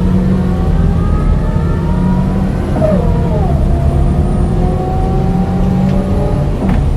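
Scania DC9 9-litre six-cylinder diesel bus engine accelerating, its pitch rising, then dropping sharply about three seconds in as the ZF automatic gearbox shifts up, and climbing again in the next gear.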